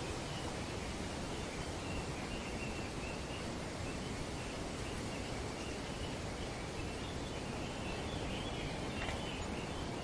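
Steady rush of wind through tree foliage, with faint, wavering bird chatter running high above it.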